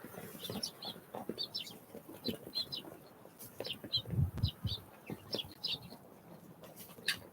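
Small wild songbirds giving many short, high chirps, with a few dull knocks about four seconds in.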